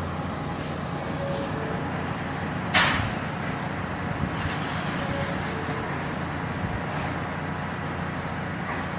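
Steady vehicle rumble with one short, loud hiss of air released from an air brake about three seconds in.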